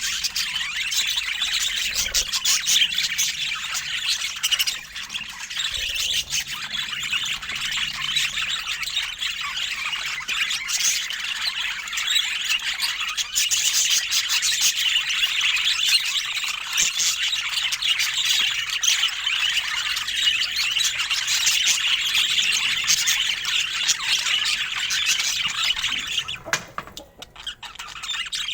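Budgerigars chattering, with dense, continuous chirps and squawks from several birds and a brief lull near the end.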